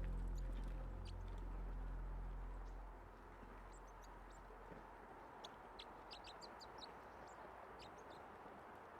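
Low sustained music tones fade out over the first three seconds; then faint outdoor background hiss with birds chirping in short high notes, most of them between about five and eight seconds in.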